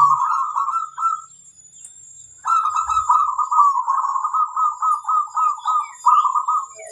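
Zebra dove (perkutut) cooing in quick repeated notes: a short phrase at the start, then a long rapid run of coos from about two and a half seconds in until near the end.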